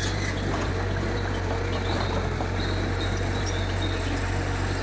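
Mitsubishi G2 bulldozer's diesel engine running with a steady low drone, with a few faint high-pitched squeaks over it.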